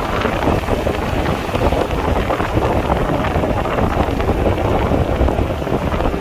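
Loud steady rushing noise with a low rumble, like wind buffeting the microphone.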